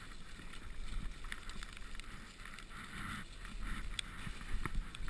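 Mountain bike riding down a muddy trail: tyre and wind rumble with scattered sharp clicks and rattles from the bike.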